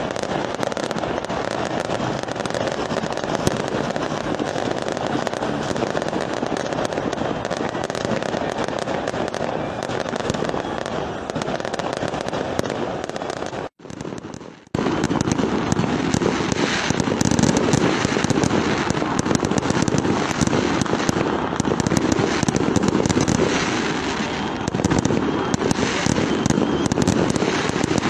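Fireworks display: a dense, continuous run of bangs and crackles with no real gap between shells. It cuts out for about a second midway, then comes back louder and heavier.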